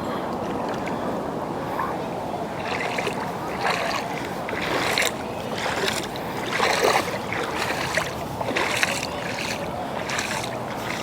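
Shallow lake water sloshing and splashing, with irregular short splashes about once a second over a steady wash.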